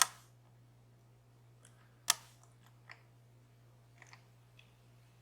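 Lock pick and tension wrench clicking in a DOM Plura lock under heavy tension. There are two sharp clicks, one at the start and one about two seconds in, then a few fainter ticks.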